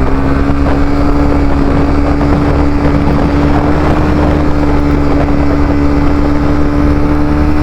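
Honda CBR300R single-cylinder engine running at steady cruising revs, a droning tone creeping slightly higher as the bike gathers speed, with wind rushing over the microphone. The rider says the motor sounds terrible; the bike has been acting up and is slow to pick up speed.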